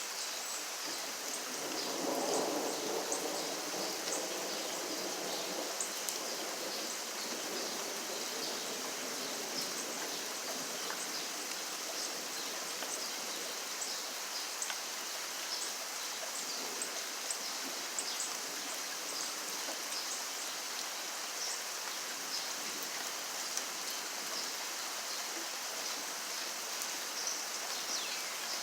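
Steady rainfall with many small drops ticking. A low rumble swells a couple of seconds in and fades away over the next few seconds.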